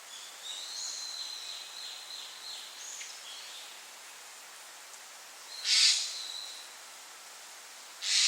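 Wild songbird singing a short high whistled phrase of quick falling notes, then two loud harsh calls about two and a half seconds apart.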